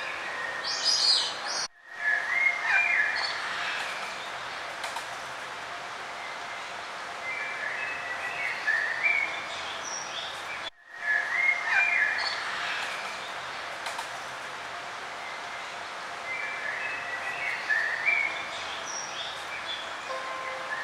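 Songbirds singing and chirping in short phrases over a steady outdoor background hiss. The same stretch of birdsong repeats, with a brief dropout about two seconds in and again about nine seconds later.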